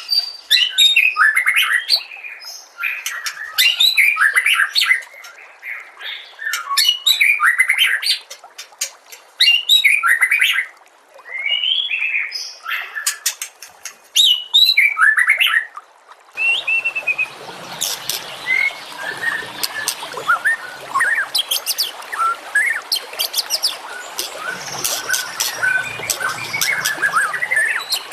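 Recorded songbird song from a masteran tutor track: loud, varied phrases broken by short pauses. About 16 seconds in it cuts to a different recording, where many quick chirps sound over a steady hiss.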